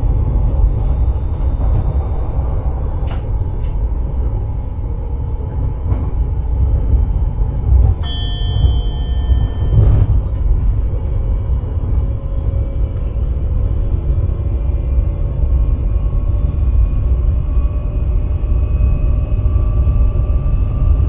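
Sprinter electric train heard from the driver's cab, running with a steady low rumble from the wheels and track. About eight seconds in, a high electronic tone sounds for about two seconds; from about halfway on, a faint motor whine rises slowly in pitch as the train picks up speed.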